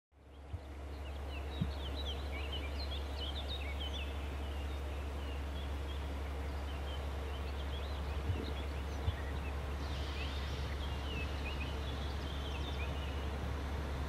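Small songbirds chirping and twittering in two spells, about two seconds in and again about ten seconds in, over a steady low rumble.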